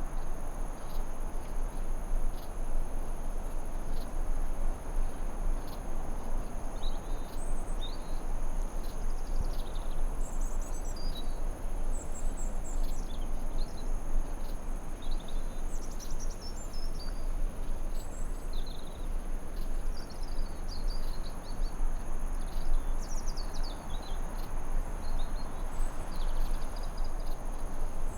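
Forest ambience: a steady rushing noise bed with a continuous high insect drone, like crickets. From about seven seconds in, birds chirp and trill on and off.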